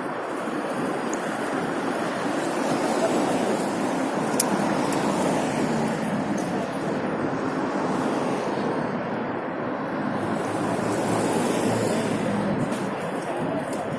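Motorcycle riding through city traffic: a steady rush of wind and road noise, with the engine running underneath.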